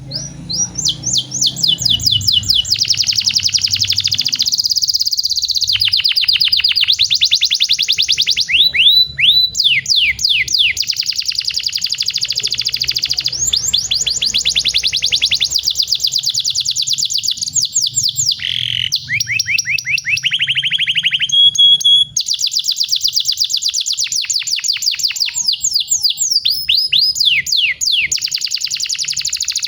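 Domestic canary singing a long song made of fast rolling trills, each a rapid run of the same repeated note, one roll following another with only brief breaks.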